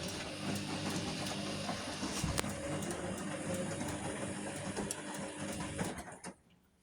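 Vestel CM8710 washing machine's motor turning the drum during the final rinse: a steady mechanical hum with light clicks and knocks, stopping abruptly about six seconds in as the drum pauses.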